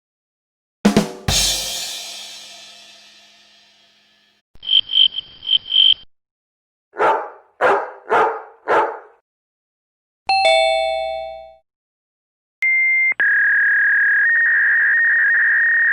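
A run of separate short sound effects: a loud crash that rings out and fades over about three seconds, then four quick high beeps, four short noisy beats, a single bell-like ding, and a long steady high-pitched tone near the end.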